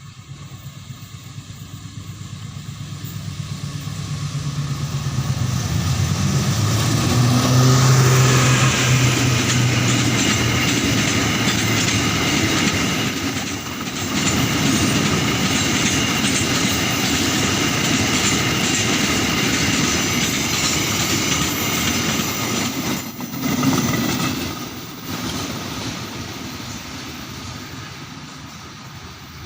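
Diesel-hauled train approaching and passing. A low engine hum grows over the first several seconds, then the carriages pass with a steady rumble and clickety-clack of wheels on the rails, which fades over the last few seconds.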